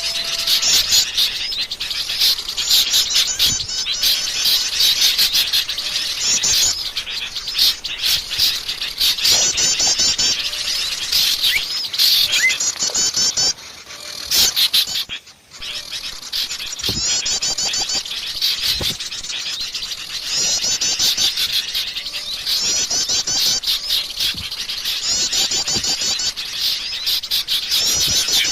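Forest birds singing: repeated phrases of rapid high notes, with a short break about halfway through.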